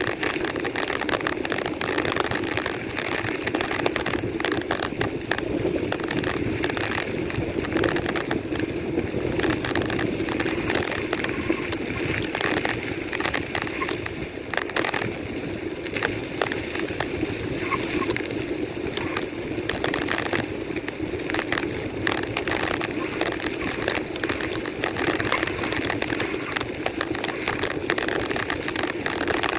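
Steady rushing wind noise on the microphone while riding a bike, with constant crackling and rattling clicks throughout.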